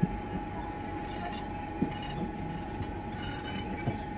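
Train running through a yard, heard from a coach window: a steady rumble of wheels on rails, broken by single knocks about every two seconds as the wheels pass rail joints and points. A steady thin squeal runs over it.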